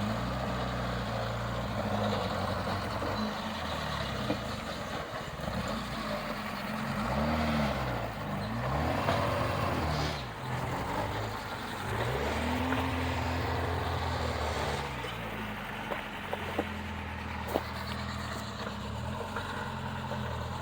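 Off-road vehicle engine crawling over rocks, revving up and falling back again and again, with a few sharp knocks near the end.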